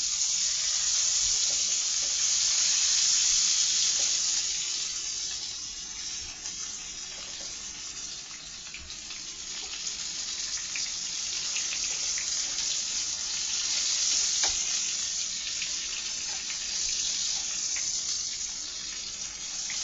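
Chicken nuggets frying in a pan of butter and hot sauce: a steady sizzle with scattered small pops. It swells louder early on, eases off, then builds again.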